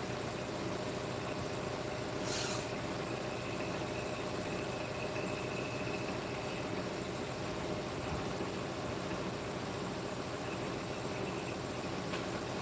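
Steady hum of a running machine, with a brief hiss a little over two seconds in.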